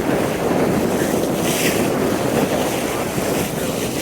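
Wind buffeting the microphone over water rushing past a moving boat's hull, with a brief higher hiss about a second and a half in.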